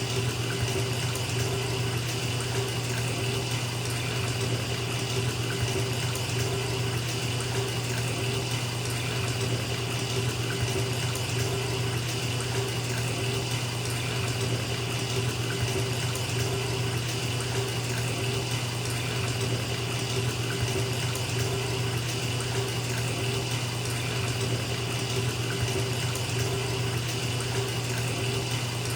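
Bathtub filling: water running steadily from the faucet into the tub, with no change or break.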